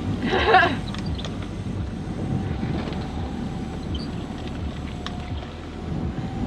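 Wind and water rushing over a small yacht sailing fast in strong wind, with a faint steady whistle-like tone throughout. A short vocal sound comes about half a second in.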